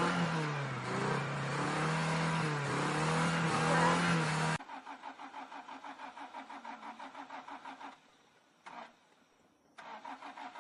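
A car engine runs loudly, its pitch wavering up and down as it is revved, and cuts off abruptly about four and a half seconds in. Then the starter cranks the engine in a quick rhythm of about five turns a second without it catching, stops, gives a brief blip, and cranks again near the end: a car that won't start.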